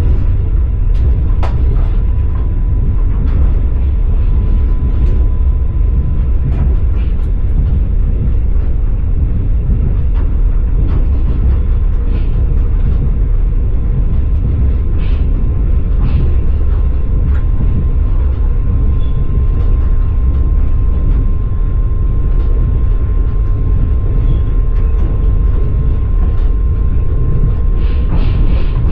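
Passenger train carriage running on the rails, heard from inside: a steady heavy rumble of the wheels with scattered knocks from the track.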